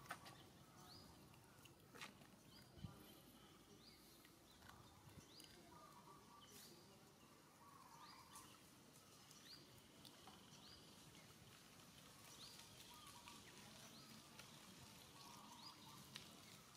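Near-silent outdoor background with a faint, short, high-pitched rising bird chirp repeated about once a second, and a couple of soft clicks early on.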